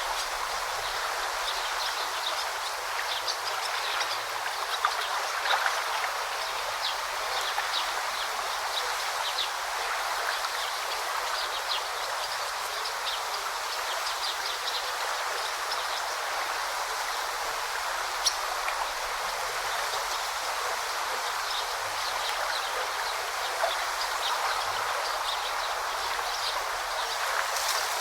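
A river or brook flowing steadily, with many short, high chirps of small birds scattered over it.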